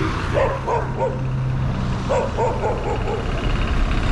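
Dogs barking in two quick runs of short barks, one near the start and another about two seconds in, over the steady low hum of a vehicle engine.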